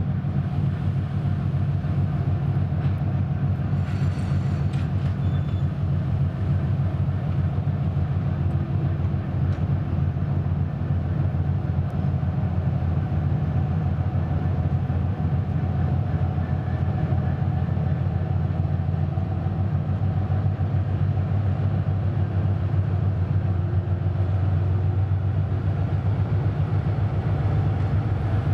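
2TE10UT twin-section diesel locomotive running with a steady low rumble as it pulls away with a passenger train.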